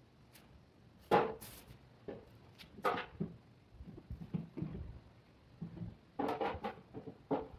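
Irregular knocks and clacks of hard objects being handled: a loud one about a second in, another near three seconds, and a cluster of several in the last two seconds.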